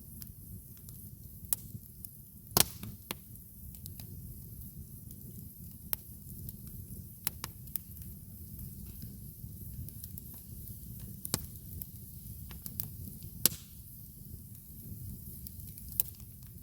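Campfire burning, the wood crackling with scattered sharp pops over a steady low rumble. The loudest pops come about two and a half seconds in and near the three-quarter mark.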